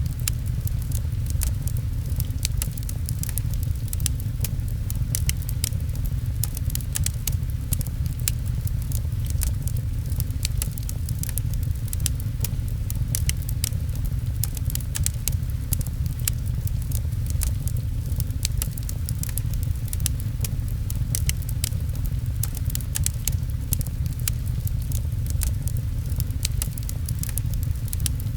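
Wood fire crackling with many small, irregular pops over a steady low rumble, mixed with rain.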